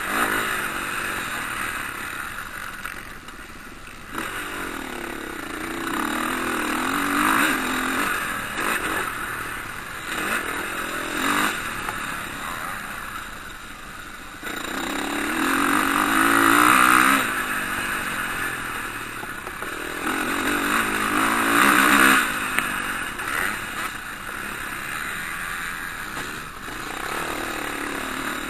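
Motocross bikes racing on the track, their engines revving up and easing off as riders pass, swelling and fading several times.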